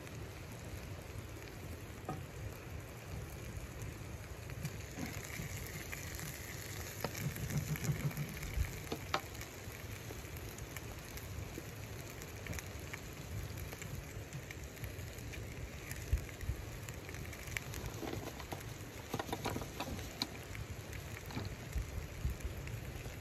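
Chicken pieces sizzling in a frying pan on a wood-burning camp stove: a steady frying hiss with scattered small pops and crackles.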